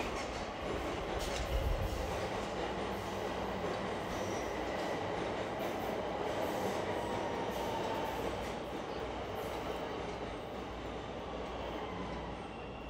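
A rail transit train running on its tracks with a faint high wheel squeal. The noise swells in the middle and eases off near the end.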